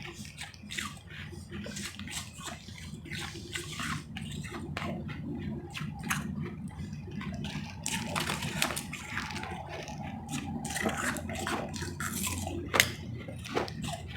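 Close-miked crunching and chewing of powdery, refrozen ice chips: irregular crisp crunches with a wet, slushy edge, with one sharper, louder crunch near the end.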